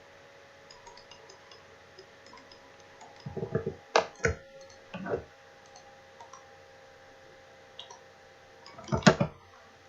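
Computer mouse clicking several times, in small clusters about three, four, five and nine seconds in, over a faint steady electrical hum.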